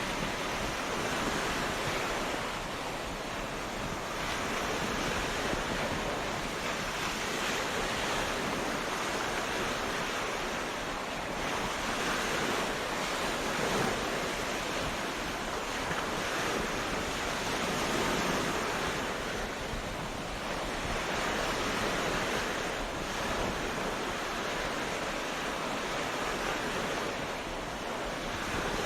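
Sea waves breaking and washing on a beach, a continuous surf hiss that swells and eases every few seconds.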